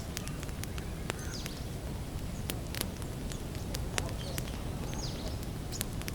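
Wood campfire crackling, with frequent sharp, irregular pops and snaps over a low steady rumble. A bird calls twice with a short falling note, about a second and a half in and again about five seconds in.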